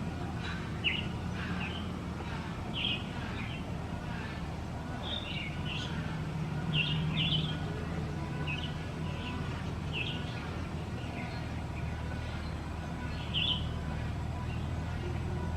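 Short, scattered bird chirps, a dozen or so separate high notes, over a steady low rumble.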